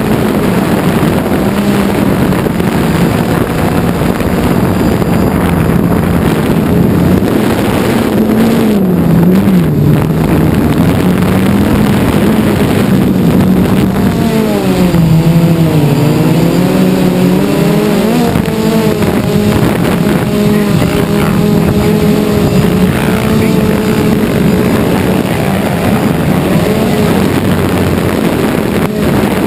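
Quadcopter drone's motors and propellers running with a steady buzz, the pitch dipping briefly about nine seconds in and sweeping down and back up around the middle as it maneuvers.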